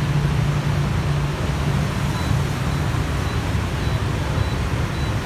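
Street traffic noise with a steady low engine hum, strongest in the first second or so and then easing.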